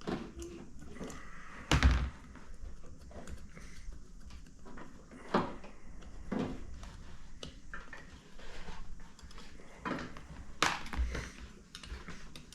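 Scattered knocks and clinks of a Stromberg carburettor's parts being handled and set down on a tray while it is taken apart. The loudest knocks come about two seconds in and again around ten to eleven seconds in.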